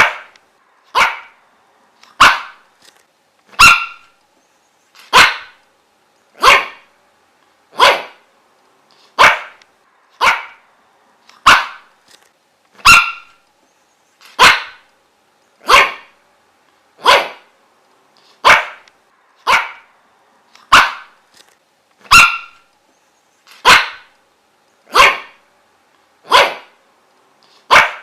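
A dog barking single short, sharp barks at a steady, unbroken pace, about one every second and a bit, some twenty in a row.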